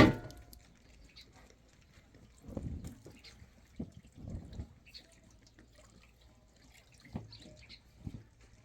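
Water dripping and splashing in a few short, scattered spurts, each a second or so apart.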